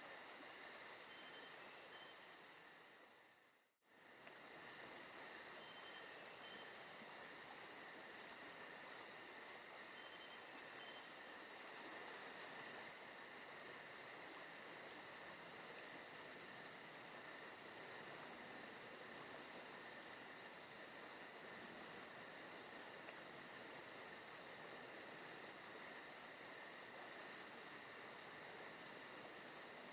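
Forest ambience of crickets and other insects chirping steadily, with a fast, even high-pitched pulsing. About four seconds in the sound fades out to silence for a moment and comes straight back.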